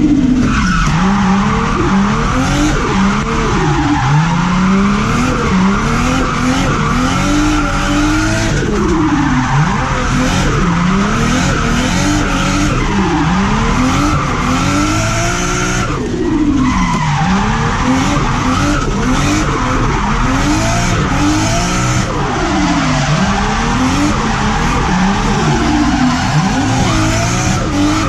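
Turbocharged car drifting: the engine revs up and down again and again while the tyres squeal steadily.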